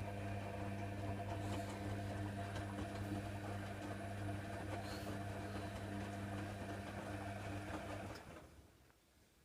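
Hoover Nextra HNWL7146 washer dryer running with a steady electrical hum, which stops about eight seconds in.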